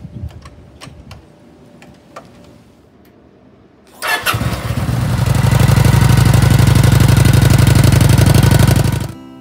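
Cruiser motorcycle started on its electric starter about four seconds in: the engine catches at once and settles into a steady idle with an even beat, then cuts off abruptly near the end. Before the start there are only a few faint clicks.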